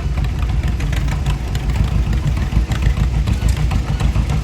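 Tractor engine running at low speed, a steady low rumble.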